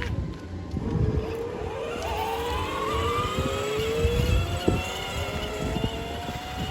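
A vehicle's motor speeding up, its pitch rising in several overlapping glides, over a low rumble.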